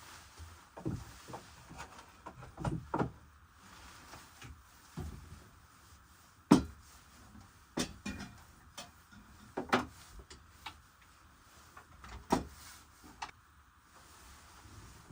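A string of separate knocks and clunks at irregular intervals, the loudest about six and a half seconds in.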